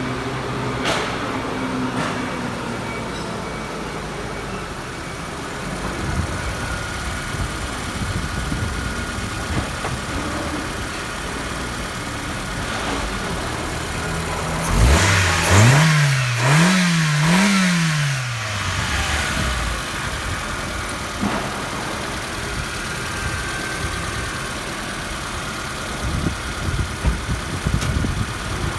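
Toyota 5E-FE 1.5-litre four-cylinder engine idling steadily, revved three times in quick succession about halfway through, then settling back to idle.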